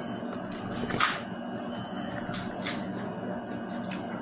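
A person chewing a mouthful of bacon cheeseburger, with a few short wet clicks and smacks, the loudest about a second in, over a steady low room hum.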